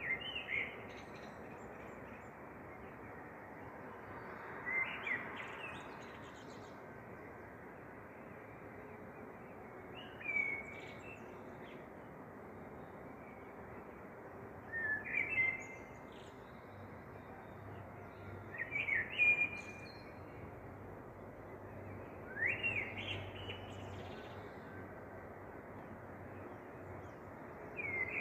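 Small bird chirping: short, rising chirps every four or five seconds over a steady hiss.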